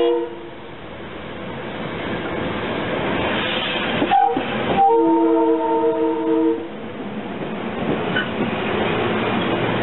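SEPTA Silverliner IV electric multiple-unit train rolling into the station, the noise of its wheels and running gear growing as the cars pass close by. Its multi-note chord horn cuts off just after the start, then sounds again about four seconds in: a short toot followed by a held chord of under two seconds. A short high squeal near the end.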